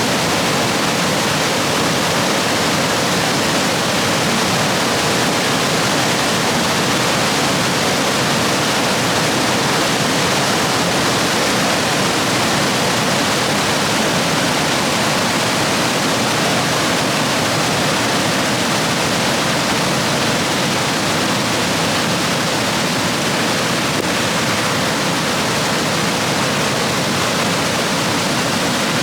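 Rushing rapids of a rain-swollen stream, a loud, steady, unbroken roar of water.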